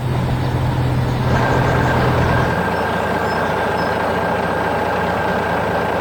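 Heavy construction-vehicle engine running steadily with a hissing wash of noise; a low hum underneath fades out about two and a half seconds in.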